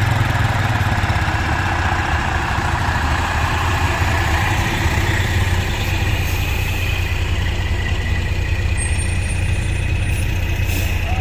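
An engine idling steadily close by, a low, even running.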